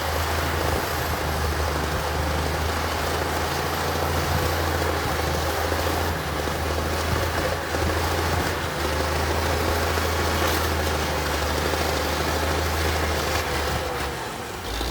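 Heavy construction machine's diesel engine running steadily, a constant low engine hum under a wash of mechanical noise.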